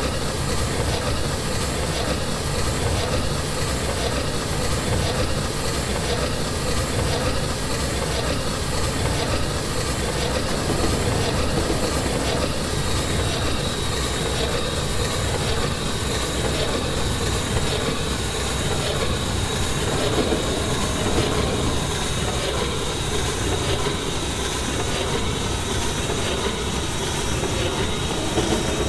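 Passenger train running steadily, with continuous rail and running noise and a repeating wheel-on-rail rhythm. A thin, steady high whine joins in about halfway through.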